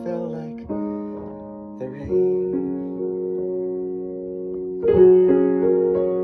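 Piano playing a few slow, sustained chords as the song's closing instrumental, with the loudest chord struck about five seconds in.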